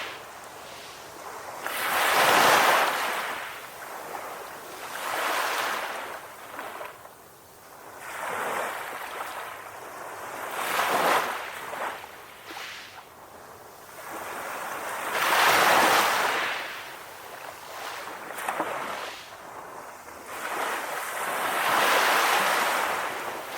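Calm ocean waves washing onto the shore, the surf noise swelling and fading in a surge every four to six seconds.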